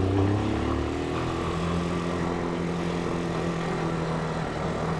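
Italika 250 motorcycle engine running while riding. Its note falls over about the first second and a half as the revs drop, then holds steady.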